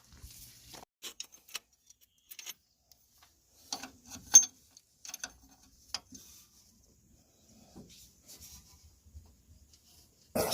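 Scattered light clicks and knocks of hand work with tools and parts, the sharpest about four and a half seconds in, then a short loud hiss right at the end.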